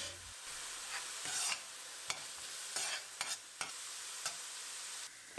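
Food sizzling in hot butter and oil in a stainless steel pan while a metal spoon stirs it. The spoon scrapes and clicks against the pan a few times.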